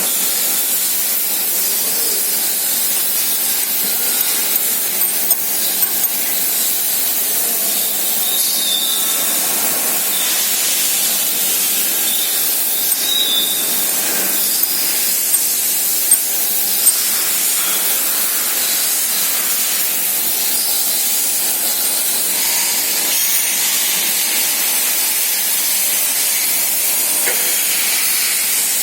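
Surface grinder running, a steady high hiss with a few faint ticks.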